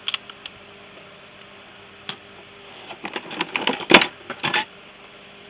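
Small metal tools clinking and rattling as they are handled in a toolbox: a few clicks at the start, a single one about two seconds in, then a busier run of clinks and rattles from about three seconds in, loudest around four seconds.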